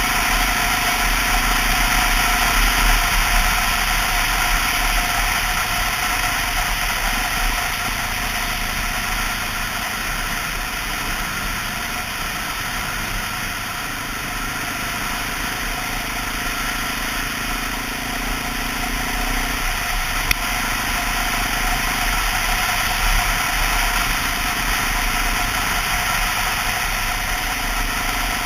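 2002 Honda XR650L's single-cylinder four-stroke engine running steadily under a dual-purpose motorcycle on the move, with a steady rush of noise over it.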